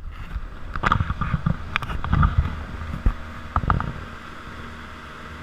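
Motorboat engine running with a steady low hum. Irregular low thumps and crackles ride over it for the first few seconds, then die away.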